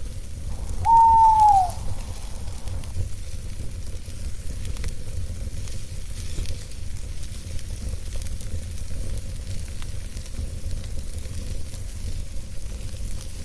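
Campfire crackling and hissing over a steady low rumble. About a second in, an owl gives one loud hoot that holds its pitch and then drops away at the end.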